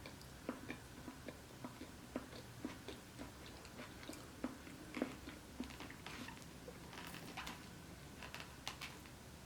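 Close-miked chewing and biting: irregular soft clicks and crunches, a few a second, the sharpest about five seconds in.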